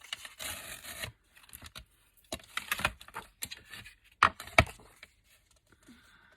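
Scissors snipping through paper, with the paper rustling as it is handled: a short rustle near the start, then a few sharp snips and scrapes in the middle.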